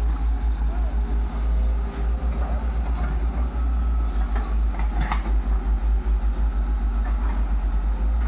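Heavy diesel machinery engine running, with a rapid low chugging pulse and a few scattered clanks.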